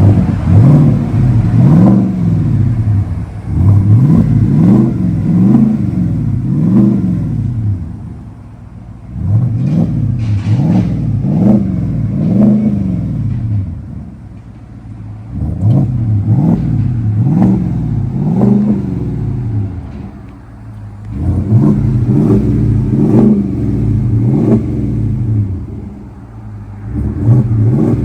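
2025 Cadillac Escalade's engine revved repeatedly through a custom true dual exhaust with a Borla Pro XS muffler. The revs come in bursts of quick blips, each rising and falling, with short drops back to idle between them. Near the end it settles to a steadier idle with lighter blips.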